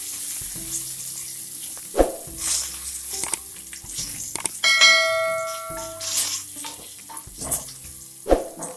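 Potatoes frying in hot mustard oil in a kadai, a steady sizzle, with a wooden spatula knocking against the pan about two seconds in and again near the end. About halfway through, a short bell-like chime from the on-screen subscribe-button animation rings and fades over a second.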